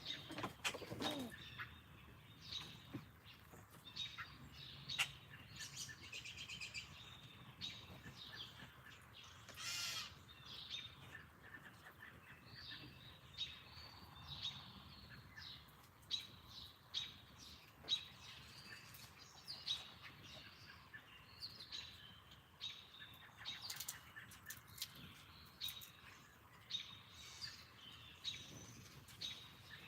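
Wild songbirds chirping and calling, many short overlapping chirps throughout, with a brief noisy rustle about ten seconds in.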